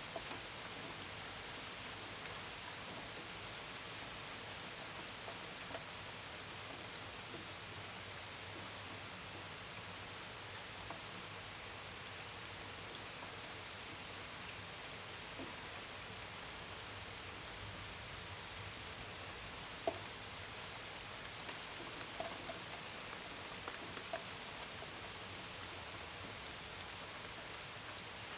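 Steady gentle rain, with occasional sharper drips against a window and gutters in the second half. Crickets trill in a high, steady, slightly pulsing chorus over it.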